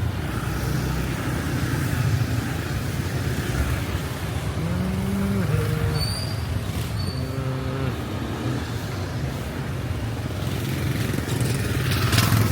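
Street traffic of motorbikes and cars running past, as a steady low rumble. One vehicle passes louder near the end.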